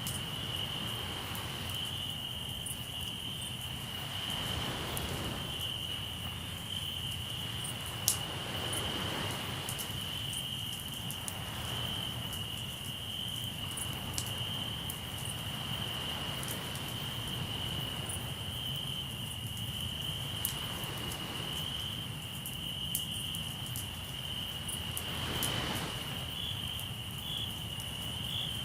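Crickets chirping in a steady high trill, with a campfire crackling and popping now and then, one pop loud about eight seconds in. Sea waves wash in every few seconds.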